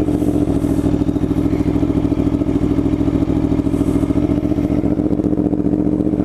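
Aprilia Tuono V4 1100 Factory's 65-degree V4 engine idling steadily after a start-up.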